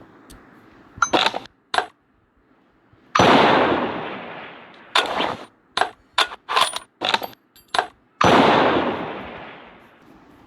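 Two gunshot sounds, each a sudden bang with a long fading tail, about five seconds apart. Between them comes a run of short, sharp metallic clicks of a Kar98k bolt action being worked, with a couple more clicks near the start.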